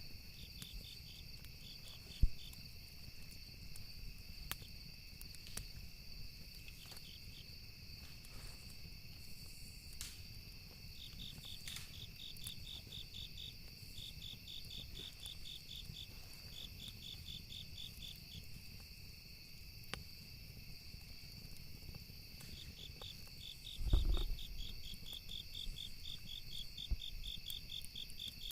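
Campfire ambience: burning wood crackling with scattered sharp pops, the loudest about two seconds in, over crickets chirping in repeated pulsed trills and a steady high insect drone. A low thud about 24 seconds in.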